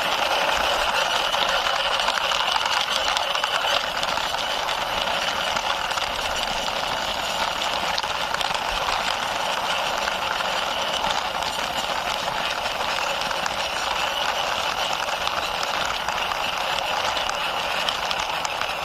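Toy super bus's plastic wheels rolling as it is pushed along by hand: a steady, even hissing rattle.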